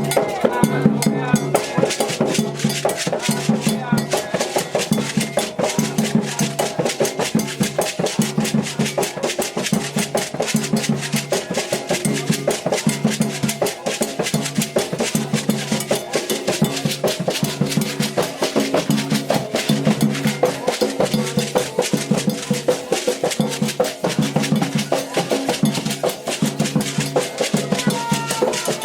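Candomblé atabaque drums playing a fast, steady rhythm of dense strokes.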